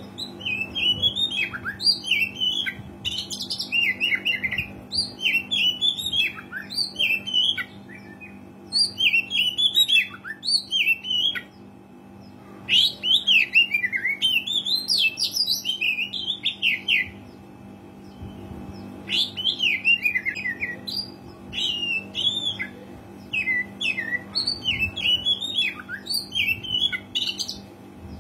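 Oriental magpie-robin singing in bouts of fast, varied whistles and chattering notes, with short pauses between bouts, over a steady low hum.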